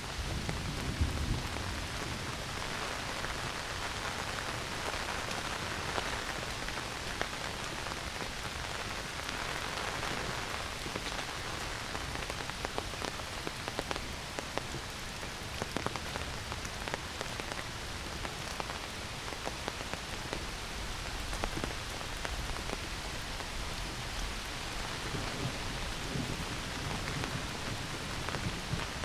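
Heavy rain falling through forest: a steady hiss dotted with many individual drop taps. A low rumble is also heard near the start and again near the end.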